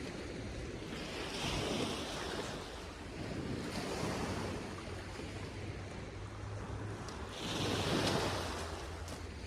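Sea waves washing onto the beach, swelling twice, about a second and a half in and again near the end, with wind on the microphone.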